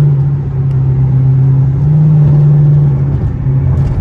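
Straight-piped Dodge Charger R/T V8 exhaust droning steadily as the car drives, heard from inside the cabin with the windows up. The drone swells slightly about two seconds in.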